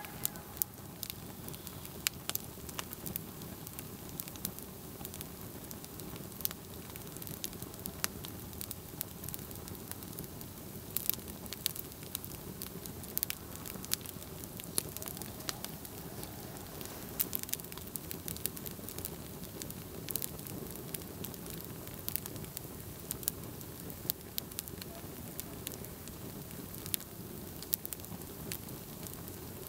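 Campfire burning, crackling and popping: a steady low rush of flame with frequent sharp, irregular snaps.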